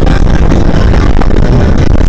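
E-bike ride heard through a body camera: a steady, very loud rumble of wind and road noise on the microphone, with music playing underneath.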